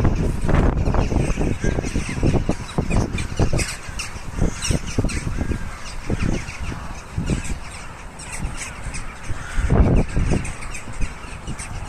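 A large flock of crows and jackdaws calling over one another in a continuous din of caws and shorter calls, with gusts of wind buffeting the microphone, one strong gust about ten seconds in.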